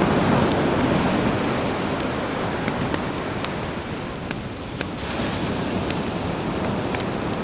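Sea surf washing on the shore, with campfire crackles as sharp scattered pops over it. The surf is loudest at the start, eases around the middle, and builds again a little after halfway.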